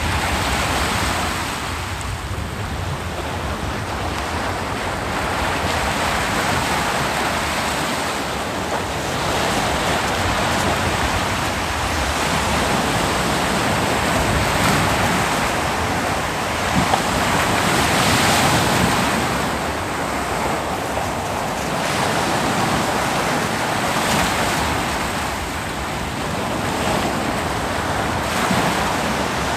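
Ocean waves breaking on a beach, the surf rising and falling in swells every few seconds.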